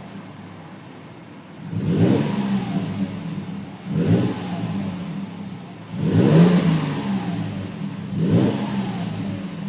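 2006 Toyota 4Runner's 4.0 L V6 through a Gibson aftermarket exhaust, idling and then blipped four times, each rev climbing quickly and falling back to idle.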